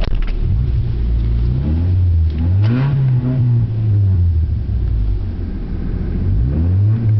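Honda Accord four-cylinder engine running with no muffler or catalytic converter, loud and raw: it blips up about two seconds in and falls back to idle, then revs up again near the end.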